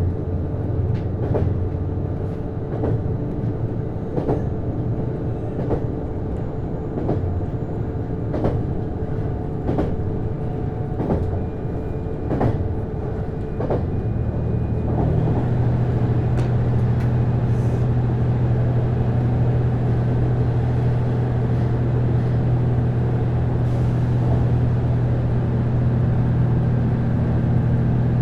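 Inside a JR East HB-E210 hybrid railcar: wheels clicking over rail joints about once every second and a half over a low rumble. About halfway through, a steady low drone sets in and holds: the Komatsu DMF15HZB-G diesel engine running to drive the generator.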